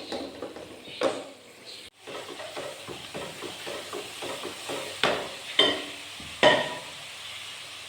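Masala frying in a cooking pot, sizzling while it is stirred, the spoon scraping and knocking against the pot in short repeated strokes, with a few louder knocks.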